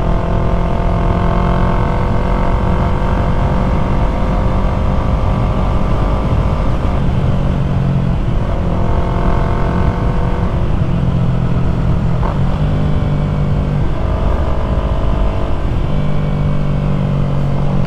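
2020 Yamaha MT-03's parallel-twin engine running under way through an aftermarket full-system exhaust, its pitch dipping and rising several times, over low wind rush.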